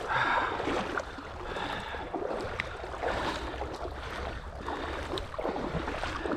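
Creek water sloshing and splashing close to the microphone, with scattered small splashes and a low wind rumble on the mic.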